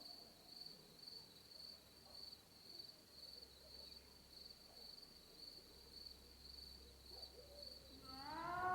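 A lull between drawn-out calls of an unidentified animal, filled by a faint high tone pulsing about twice a second. Near the end a new loud call begins, with several overtones, rising in pitch and then holding steady.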